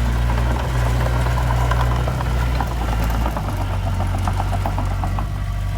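Heavy earthmoving machine's diesel engine running steadily, with a run of light metallic clinks through the first few seconds; the engine note shifts slightly about three seconds in.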